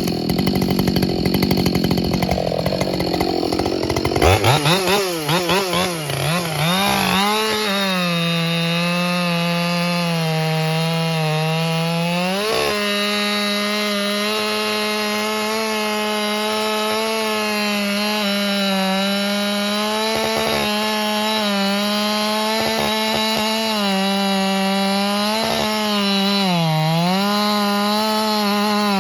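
Ported Husqvarna 572 XP chainsaw with a 28-inch bar and semi-skip square ground chain, at full throttle and cutting wood. About four seconds in the engine note wavers as the chain bites, then holds a steady pitch under load, dipping briefly twice.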